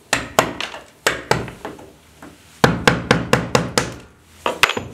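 Hammer blows chipping and breaking off old wall tile and thinset mortar: about a dozen sharp strikes, with a quick run of about seven in the middle.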